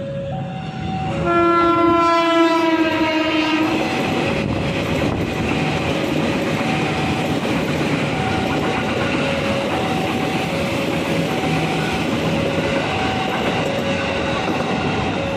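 Electric commuter train sounds one long horn blast about a second in, then passes close by with its wheels clattering over the rail joints. A level-crossing alarm keeps ringing its two alternating tones underneath.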